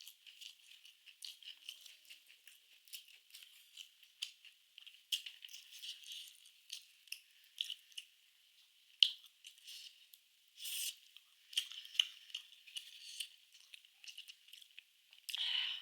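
A person eating close to the microphone: irregular chewing clicks and crackles, with a sharper click about nine seconds in and a few longer, louder bursts later on.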